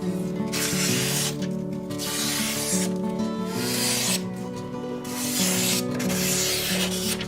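Five long abrasive rubbing strokes, each about a second with short gaps, of something being worked back and forth over a rough surface, over background acoustic guitar music.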